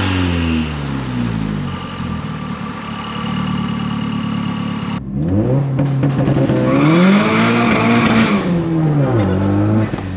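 Mazdaspeed 3's turbocharged 2.3-litre four-cylinder engine under way: its pitch falls off a rev, holds steady for a few seconds, then climbs again about five seconds in as the car accelerates, with a loud rushing hiss at the top of the pull around seven to eight seconds in. Near nine seconds the pitch drops as the throttle comes off, then rises once more.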